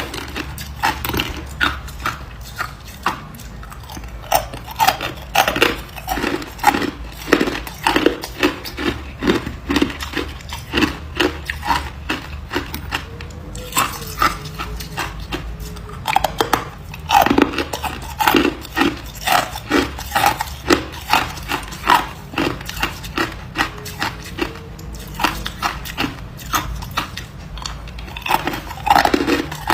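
A person biting and chewing ice, a rapid run of crisp crunches about two or three a second, with a short lull about halfway through.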